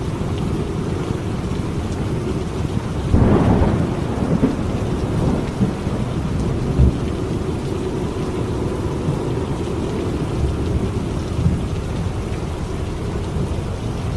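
Steady heavy rain, with a clap of thunder about three seconds in that rumbles for about a second. A few smaller low rumbles follow.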